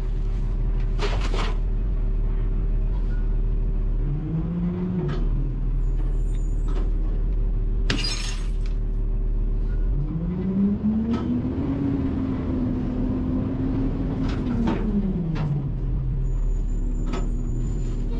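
Garbage truck running steadily, its hydraulics whining up in pitch, holding and winding back down, briefly about four seconds in and again for several seconds from about ten seconds in. A sharp bang about eight seconds in, a few lighter knocks, and a thin high squeal near the end.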